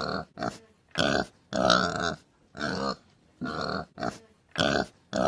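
Pig grunting: a series of about nine short grunts, each under half a second, spaced roughly one or two a second.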